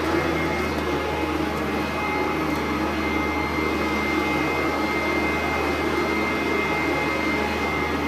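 Sanitaire SC899 upright vacuum cleaner running steadily, with a thin high whine over the rush of its motor.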